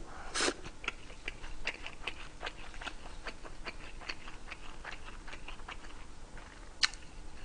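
A man chewing a mouthful of rice and fried food close to the microphone: a steady run of soft, wet mouth clicks several times a second, with one sharper click near the end.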